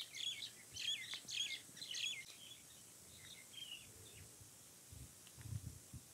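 A small bird singing a run of quick, high, sweeping chirps in the first two seconds or so, then a few fainter chirps. Soft low rustles near the end.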